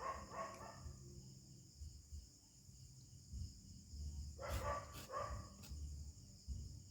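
A dog barking in two short bouts, one at the start and another about four and a half seconds in, over a steady high insect chirr.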